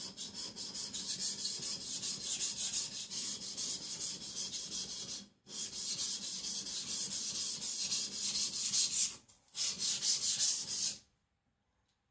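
Aogami carbon-steel gyuto stroked back and forth flat on a 400-grit Naniwa Professional whetstone, thinning the blade behind the edge: a rapid rhythmic scraping of about four strokes a second. It breaks off briefly twice and stops near the end.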